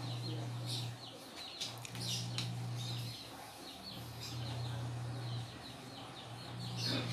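Small birds chirping over and over in quick short notes, with a low hum that starts and stops every second or two.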